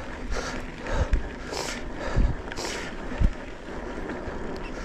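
Mountain bike riding over a rough dirt trail, with about three heavy knocks as it goes over bumps and short hissing swishes between them.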